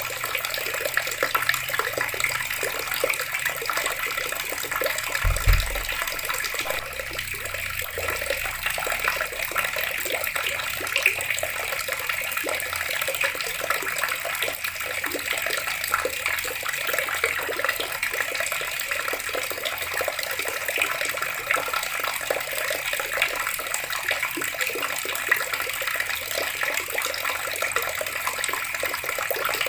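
Water running from a tap and splashing steadily, with a brief low thump about five seconds in.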